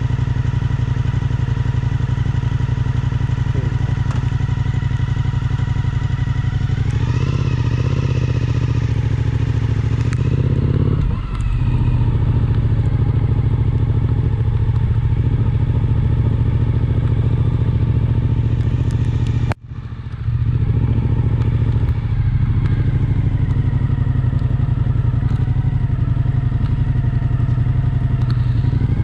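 Suzuki V-Strom 1050XT's V-twin engine running steadily while the motorcycle is ridden, with road noise underneath. The engine note rises about seven seconds in and dips briefly around eleven seconds. The sound cuts out suddenly for a moment about twenty seconds in.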